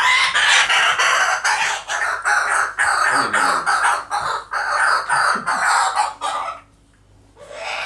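Kookaburra's laughing call: a long, loud run of rapid chuckling notes that stops about six and a half seconds in, with a short call again near the end.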